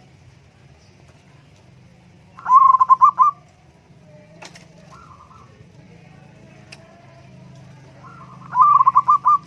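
Zebra dove (perkutut) cooing: two loud phrases of rapid staccato coos, each about a second long and about six seconds apart, with a fainter coo between them. A low steady hum runs underneath.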